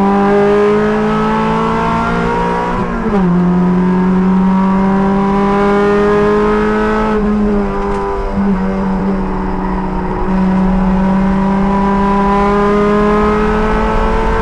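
Race car engine heard from the cockpit under hard acceleration. Its pitch climbs steadily through each gear, then drops sharply at upshifts about 3 and 7 seconds in. There is a brief dip near 8.5 seconds and a step near 10 seconds, and the pitch climbs again to the end.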